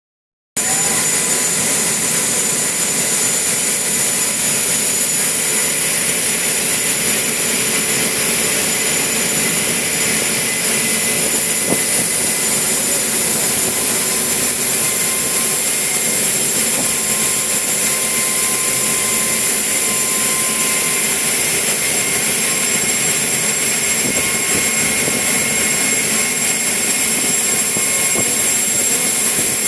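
Ferry engines running steadily: a loud even hiss with a thin high whine that shifts a little in pitch about halfway through and drops near the end.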